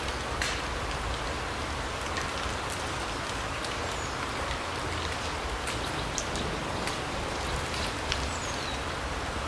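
Forest ambience: a steady hiss with scattered light ticks, like drops falling, and a few faint, short, high bird chirps about four and eight seconds in.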